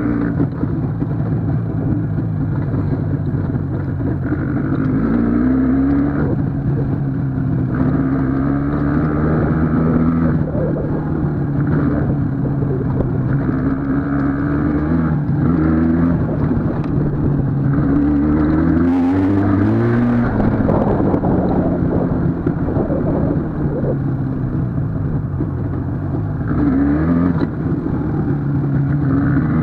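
Vehicle engine running on the move, its pitch climbing several times and falling back at each gear change.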